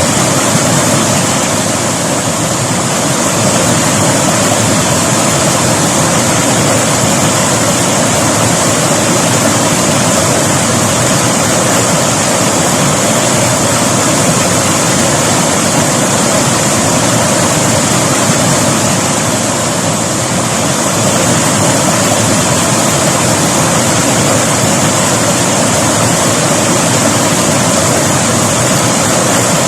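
River water flowing and rushing steadily over rocks: a loud, unbroken rushing.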